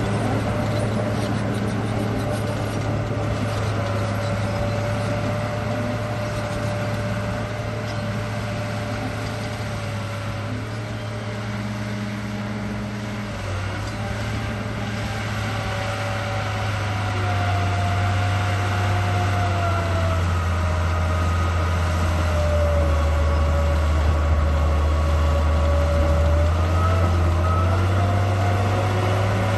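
RC bulldozer running: a steady low hum with a thin motor whine over it that rises a little in pitch about halfway through, growing louder in the second half.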